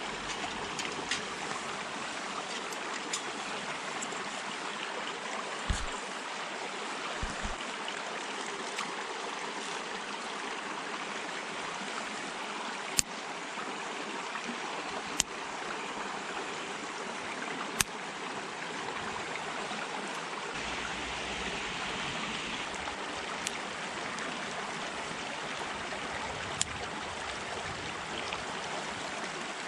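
Twig fire burning in a small metal fire stand: a steady crackling hiss with a handful of sharp pops.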